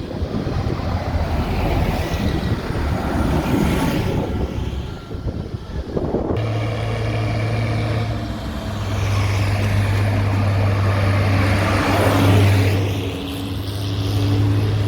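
Tractor engines running. About six seconds in, the sound switches abruptly to one engine running steadily with a low, even hum, which swells briefly near the end.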